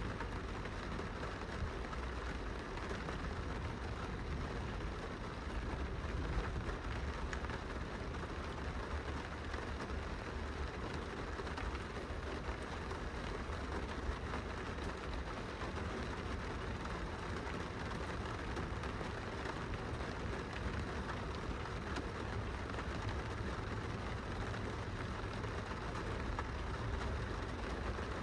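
Rain pattering steadily on glass, heard from inside a car, with many small drop ticks over a steady low rumble.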